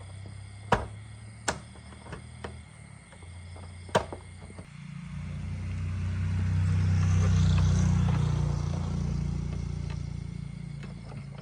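A motor vehicle passing by, its engine and road noise swelling over a few seconds and then fading, after a few sharp knocks over a low steady hum.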